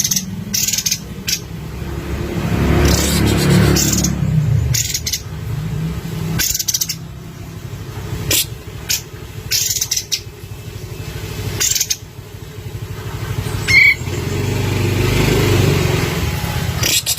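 Steady drone of a motor vehicle engine, swelling twice, with about a dozen short, high chirps from a kapas tembak bulbul scattered over it.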